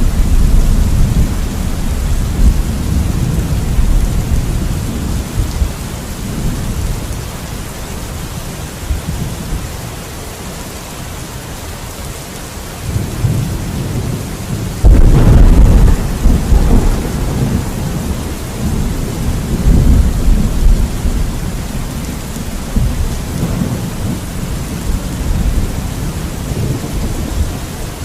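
Thunderstorm: steady rain falling, with low thunder rumbling. About halfway through, a sudden loud clap of thunder breaks in and then rolls away into rumbling.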